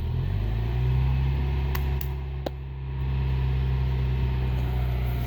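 Vehicle engine idling with a steady low hum that rises slightly in pitch about half a second in, with a few sharp clicks around the two-second mark.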